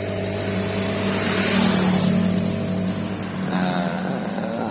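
An engine running steadily with a droning hum. A rushing noise swells and fades about a second or two in.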